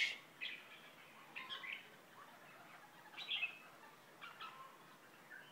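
Small bird chirping: short, high calls in groups of one to three notes, coming about once a second.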